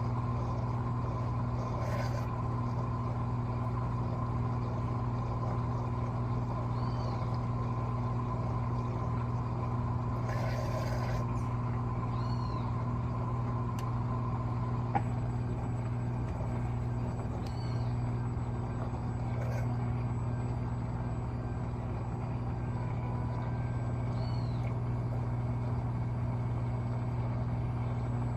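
Electrolux LTA15 washing machine running with a steady low hum. A higher steady tone stops about halfway through, at the same moment as a single sharp click; a few faint short high chirps come and go.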